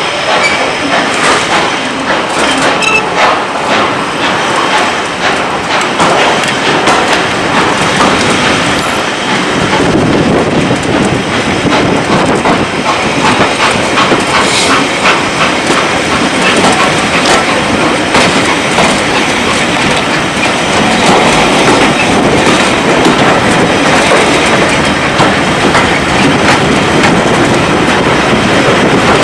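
Railway train running along the line: a steady loud rumble with wheels clicking over the rail joints, getting a little louder about ten seconds in.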